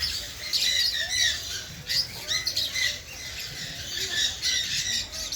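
Birds squawking: many short, harsh calls in quick succession, overlapping as if from several birds.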